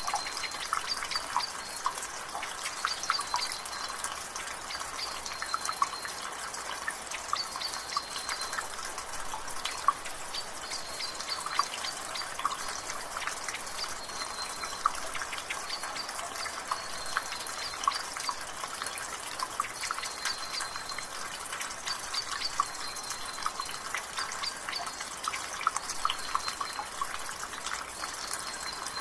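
Water dripping from a roof gutter in quick, irregular drips and splashes. A bird repeats a short, high call every second or two in the background.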